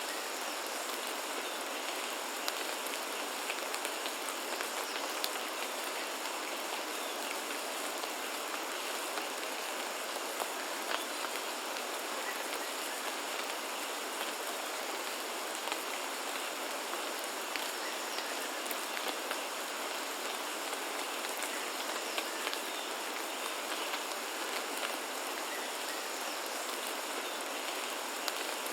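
Steady rain falling, an even hiss with many individual drops ticking sharply through it, and a faint steady high tone behind it.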